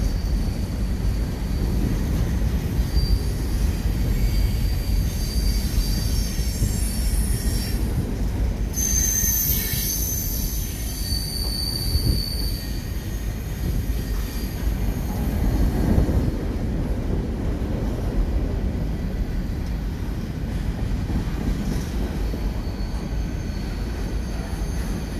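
Freight train of covered hopper cars rolling past, the wheels rumbling steadily on the rails. High-pitched wheel squeal comes and goes as the cars round the curve, loudest about ten seconds in.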